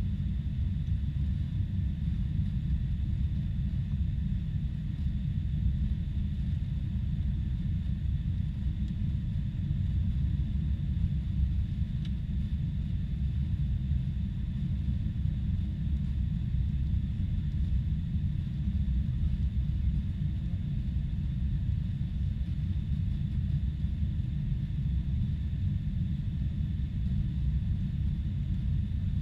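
Boeing 747-400 airliner running with a steady low rumble and a faint, even high hiss, unchanging throughout.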